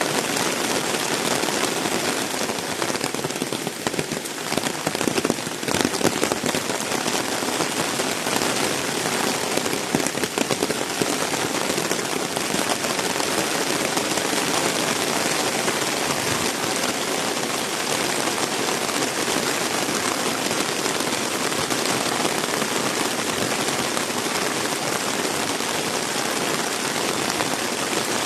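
Heavy rain pouring down steadily, a dense, even hiss of water with a few louder spattering surges a few seconds in and again around ten seconds.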